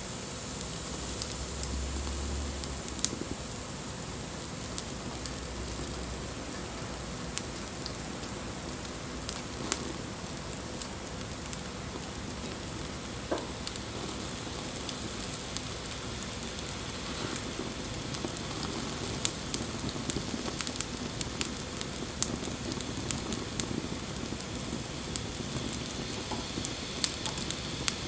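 Wood fire burning with a steady hiss and scattered sharp crackles and pops, which come more often in the second half.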